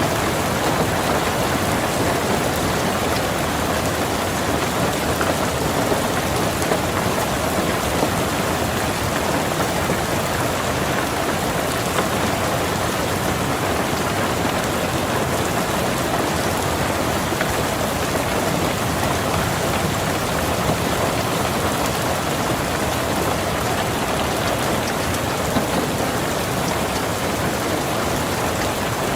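Steady rain falling on a car's roof and windows, heard from inside the car: an even patter of many drops with no let-up.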